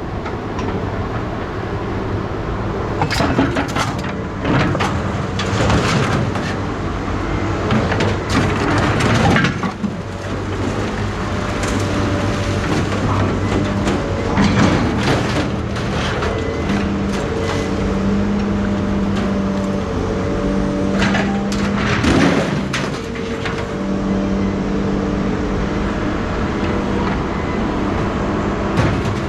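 A motor vehicle engine running steadily, with scattered knocks and crackling clicks over it.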